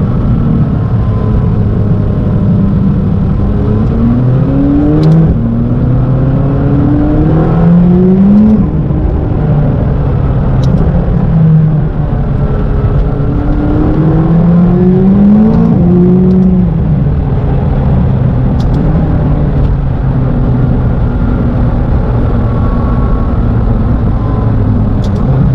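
McLaren 570GT's twin-turbocharged 3.8-litre V8 pulling hard through the gears: the engine note climbs in pitch and steps down at each shift, in two bursts of acceleration about four and about thirteen seconds in, with steadier running between.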